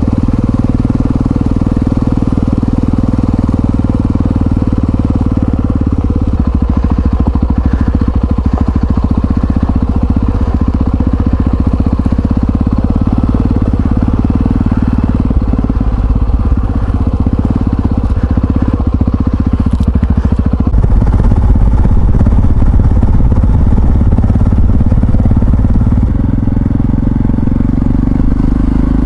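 Yamaha XT660Z Ténéré's single-cylinder four-stroke engine running under way, its steady note shifting a few times as the speed and load change.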